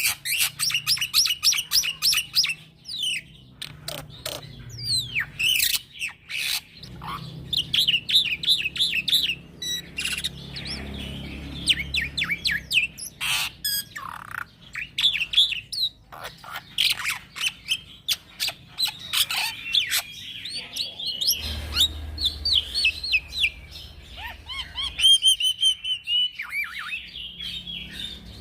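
Young black-winged starling singing non-stop: a fast, rambling stream of chirps, rising and falling whistles and harsh scratchy notes.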